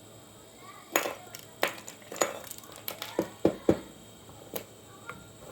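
A run of about eight sharp, irregularly spaced clicks and knocks, starting about a second in and ending a little past halfway.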